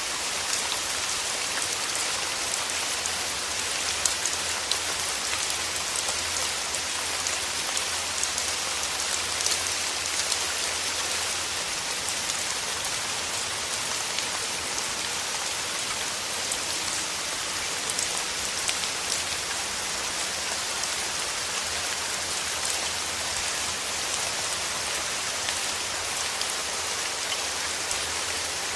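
Steady rain falling on a surface, with a constant hiss and many small drops pattering distinctly throughout.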